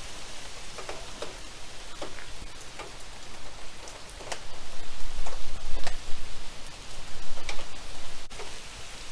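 Heavy storm rain falling, with scattered sharp drips, and gusts of hurricane wind rumbling on the microphone that swell around the middle.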